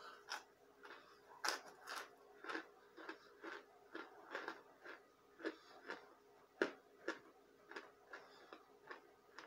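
Chewing chunks of cornstarch: a run of short, crisp crunches, about two a second, one of them louder about two-thirds of the way through.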